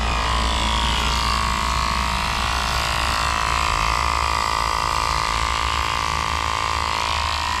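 Portable 12-volt tire inflator running steadily with an even mechanical whine, pumping air into a low motorcycle tire. It cuts off suddenly at the end.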